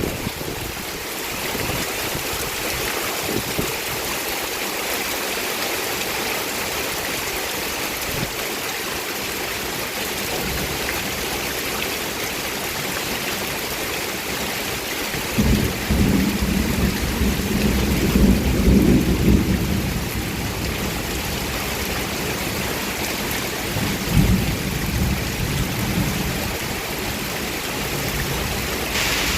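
Heavy rain pouring steadily, with a low rumble that swells about halfway through and comes back briefly near the end.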